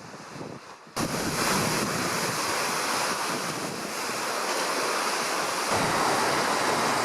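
Steady rushing noise of wind on the microphone and sea surf, starting abruptly about a second in.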